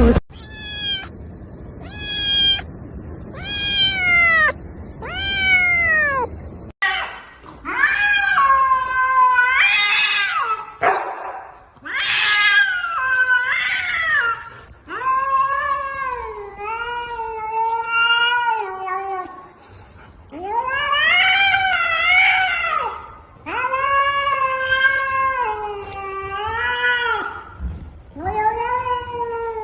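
Domestic cat meowing: four short meows falling in pitch, then a long run of drawn-out, wavering yowls.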